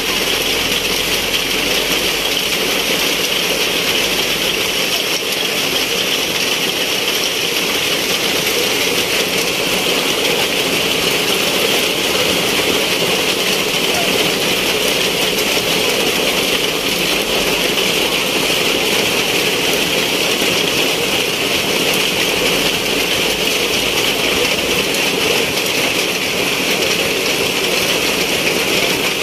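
Heavy rain pouring steadily onto wet paving and metal tables, a dense, even hiss with no let-up.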